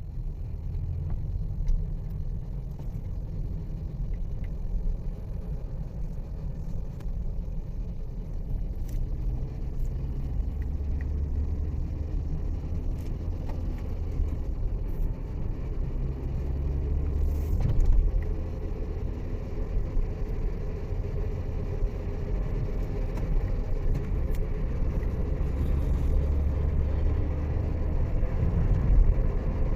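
Steady low rumble of a vehicle driving along a road: engine and tyre noise, with a few faint clicks.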